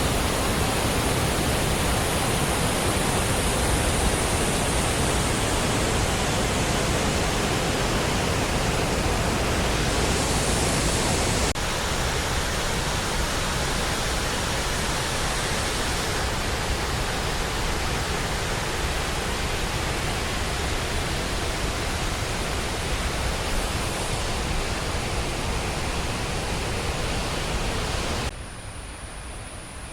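Steady rush of a large waterfall, a dense even noise of falling water. It steps down slightly about a third of the way in and drops much quieter near the end.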